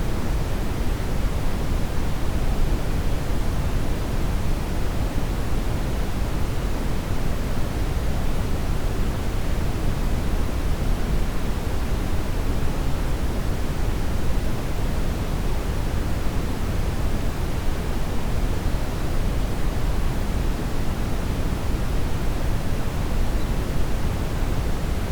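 Steady brown noise: an even, deep hiss, strongest in the low end, with no change.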